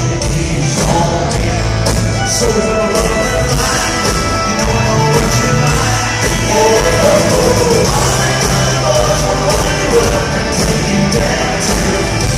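Live country-rock band playing loud and steady, with a lead singer's voice over drums, bass and electric guitars.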